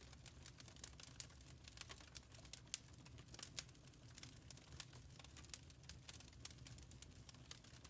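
Wood fire crackling in a fireplace: faint, irregular small pops and snaps, several a second, over a low steady rumble.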